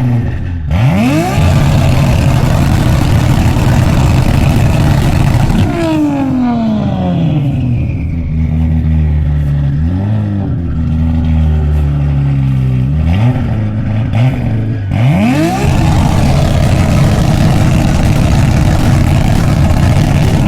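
Car engine and loud exhaust revving hard again and again: the pitch climbs sharply near the start, falls away about six seconds in, rises and falls in the middle, climbs twice more after halfway and drops near the end.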